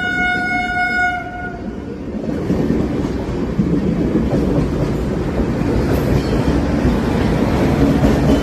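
A train horn sounds one steady note and cuts off about a second in. Then the rumble of a train rolling along the track grows louder and carries on.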